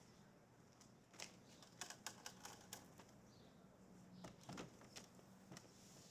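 Faint scattered light taps and clicks, a run of them a little over a second in and another brief cluster past the four-second mark, over a quiet steady low hum.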